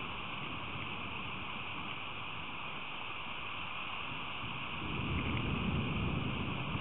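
Steady hiss of rain falling on the feeder cam's microphone during a rain storm. About five seconds in, a low rumble rises beneath it and grows louder.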